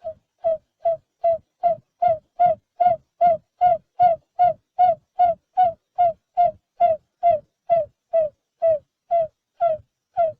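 Barred buttonquail calling: a long, even series of short hooting notes, about two and a half a second, each dipping slightly in pitch.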